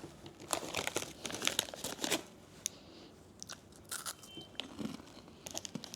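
Crunching and chewing a corn snack close to the microphone. A quick run of crisp crunches comes in the first two seconds, then scattered softer ones.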